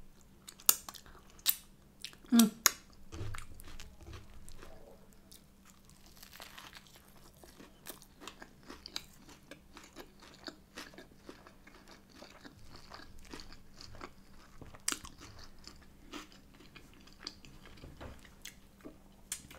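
Close-miked chewing and crunching of a crispy-coated meat-free chicken burger, with a few loud sharp crunches in the first three seconds, then a steady run of small crackly mouth noises.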